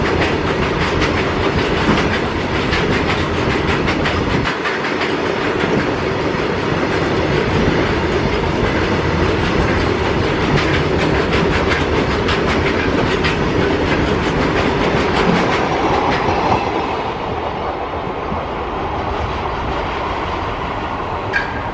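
Freight train wagons rolling past at speed, a steady rumble with the rapid clickety-clack of wheels over rail joints, easing off a little near the end.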